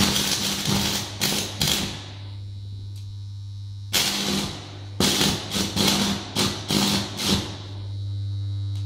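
Homemade AC arc welder wound from three microwave-oven transformers: a steady transformer hum, with the welding arc crackling and spitting in bursts for the first two seconds, then again from about four seconds until near the end.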